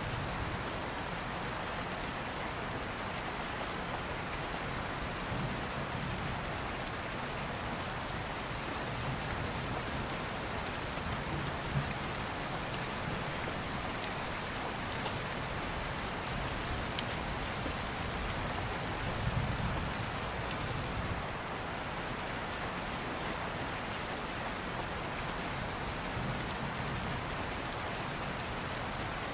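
Steady rain, with several low rumbles of distant thunder swelling and fading and a few sharp clicks over it.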